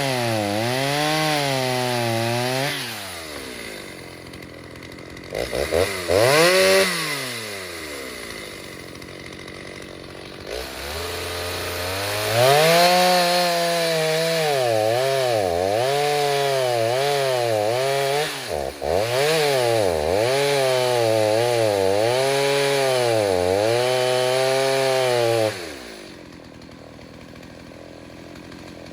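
Rebuilt Stihl 029 chainsaw cutting wood at full throttle, its pitch dipping and recovering over and over as the chain bites. Between cuts it drops to idle with one quick rev, then goes back into a long cut. Near the end the engine sound falls away abruptly.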